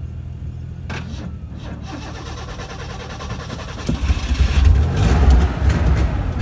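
Tough truck's engine running, then revving hard and getting much louder about four seconds in.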